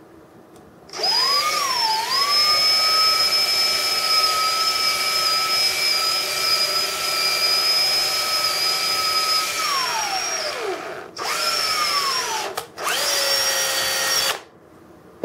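Small electric drill drilling out rivets in a diecast metal model. The motor starts about a second in and runs at a steady high whine, then winds down near ten seconds. Two shorter runs follow near the end.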